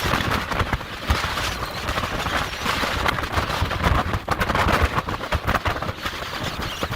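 Hurricane-force wind gusting across the microphone: a continuous rough rumble and crackle of buffeting that rises and falls with the gusts.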